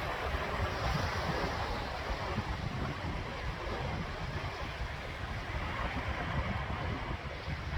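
Sea waves washing onto the shore, a steady surf noise that swells in the first couple of seconds, with wind buffeting the microphone as a low rumble.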